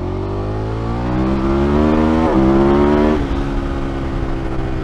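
KTM motorcycle engine accelerating hard, its pitch and loudness rising steadily, with a brief sharp dip in pitch a little over two seconds in; about three seconds in the throttle closes and the engine settles to a lower, steady note.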